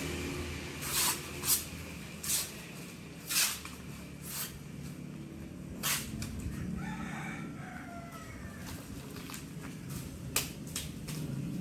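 A rooster crows once, a drawn-out call starting about six and a half seconds in and ending on a falling note. Around it come about half a dozen short, sharp noisy sounds, louder than the crow.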